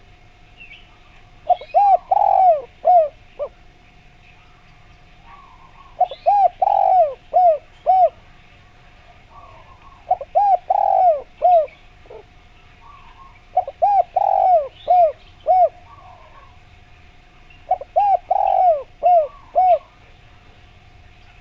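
Spotted dove (derkuku) cooing: five phrases about four seconds apart, each a run of four or five short notes that slide down in pitch. A faint steady tone runs underneath, and small birds chirp faintly between the phrases.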